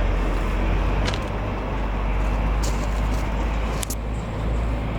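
DB class 218 diesel-hydraulic locomotive running with a steady low drone, with a few short clicks over it.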